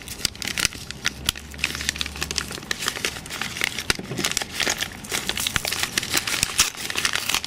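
Paper packet of surplus 7.62x54R rifle cartridges being torn open by hand, the wrapping crinkling and tearing in irregular crackles.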